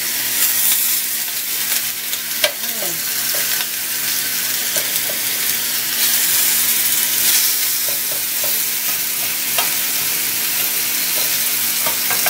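Chicken breast fillets sizzling steadily on a hot stovetop grill pan, with a few sharp clicks of metal tongs on the pan as the pieces are turned; the loudest click comes about two and a half seconds in.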